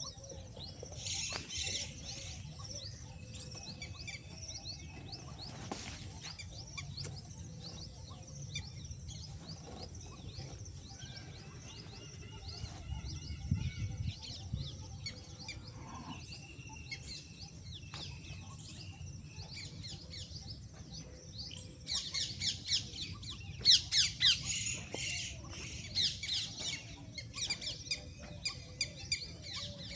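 Several songbirds chirping and calling, with a louder flurry of quick repeated chirps about two-thirds of the way through. A steady high-pitched tone and a low background rumble run underneath.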